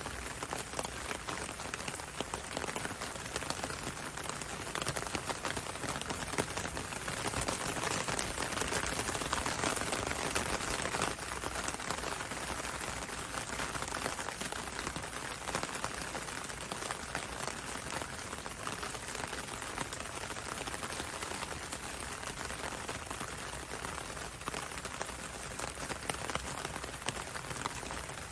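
Steady rain falling on a window and a road, a dense patter of drops that swells slightly about a third of the way through.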